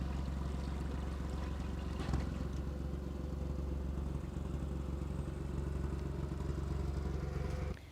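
Widebeam canal boat's diesel engine running steadily, a low even drone; it cuts off suddenly near the end.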